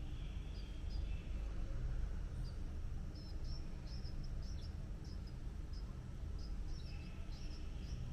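Small birds giving short, high-pitched chirps, scattered and irregular, coming more often after about three seconds, over a steady low rumble.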